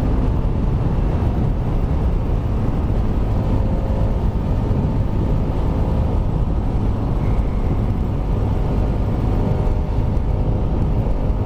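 Kawasaki Rouser RS200's single-cylinder engine running steadily at cruising speed on its stock exhaust, under heavy wind rumble on the microphone.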